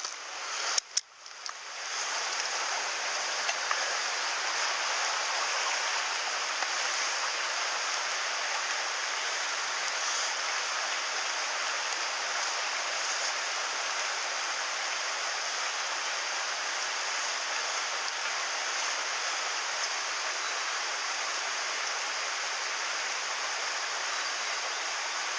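Mountain stream water rushing steadily over rocks, with a few sharp clicks about a second in.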